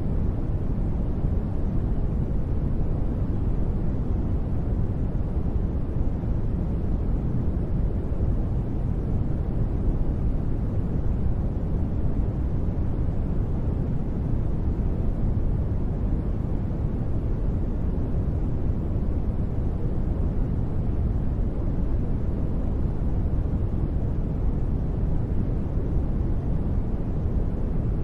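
Steady sleep-aid noise: a deep, even rush with most of its energy in the low end and little high hiss, without any change or sudden sound.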